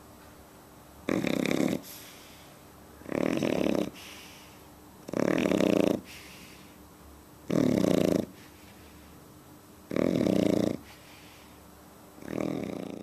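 Shar Pei puppy snoring in its sleep: six loud snores at an even rhythm, about one every two seconds, each lasting under a second.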